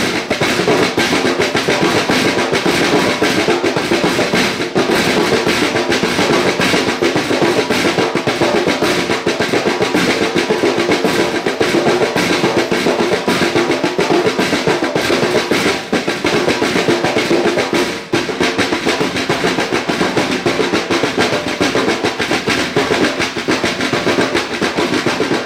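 Drum music: a fast, continuous snare-heavy drum pattern with bass drum underneath, played without a break.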